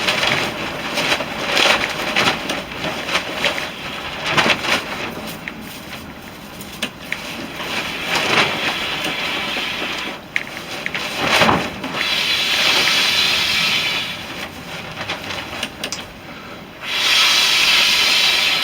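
Long, strong breaths blown into a tinder bundle to bring a smouldering char-cloth ember to flame, with crackling and rustling of the dry bundle before them. Two long, steady blows come about twelve seconds in and again near the end.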